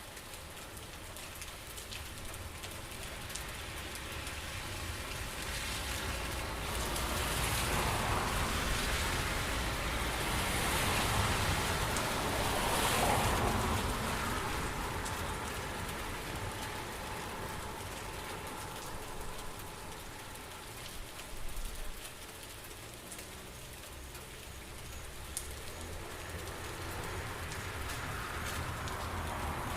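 Steady rain falling, a continuous hiss that swells into a louder spell about a quarter of the way in and eases off again.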